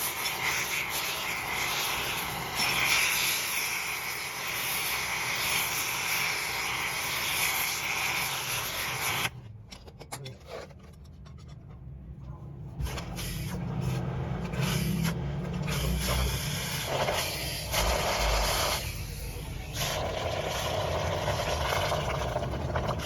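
Metalworking noise from a lathe shop: a steady hiss of cutting or grinding metal that cuts off suddenly about nine seconds in. After a few quieter seconds it picks up again over a low machine hum.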